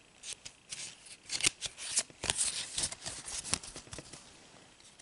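Trading cards being handled, with irregular short crisp rustles and scrapes of card and pack wrapper.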